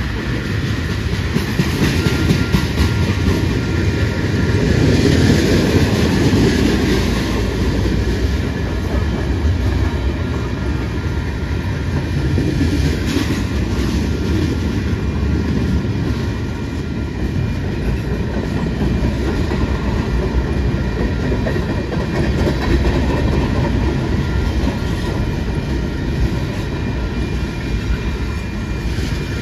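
Freight train passing: tank cars, covered hoppers and boxcars rolling by, their steel wheels clicking rapidly over the rails over a steady rumble.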